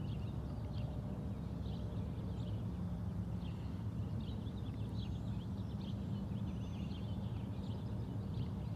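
Small birds chirping, with many short calls scattered throughout, over a steady low rumble.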